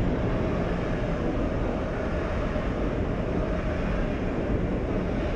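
A double-deck electric passenger train running past a station platform: a steady noise of wheels on the rails, even in level throughout.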